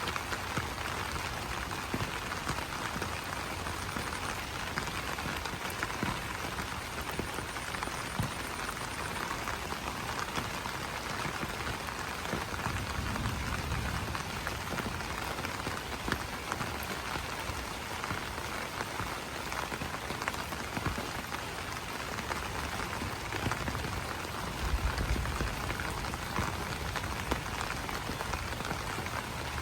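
Steady rain pattering on large banana leaves: a dense, even patter of many small drop impacts, with a brief low rumble twice.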